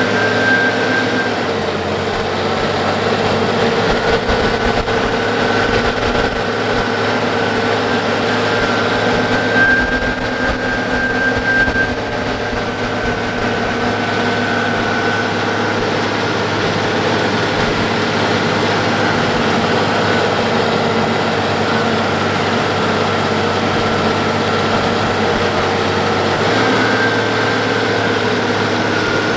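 Case IH Steiger 9370's Cummins N14 six-cylinder turbocharged diesel running steadily, with a high whine over the engine note.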